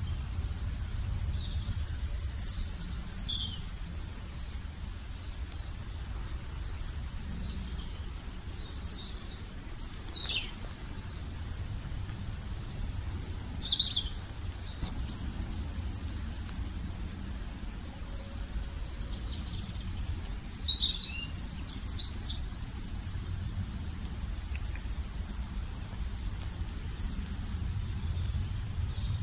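Songbirds chirping and singing in short, scattered high phrases, busiest about a quarter of the way in, around the middle, and again past two-thirds of the way through, over a steady low rumble.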